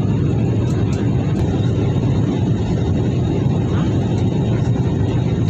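Steady engine and airflow noise inside an airliner's cabin during the descent, a deep, even rumble with a fainter hiss above it.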